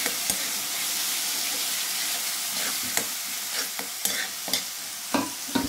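Masala paste with tomato paste frying and sizzling in oil in a metal pan while a steel spoon stirs and scrapes it. The spoon clinks against the pan, more often near the end.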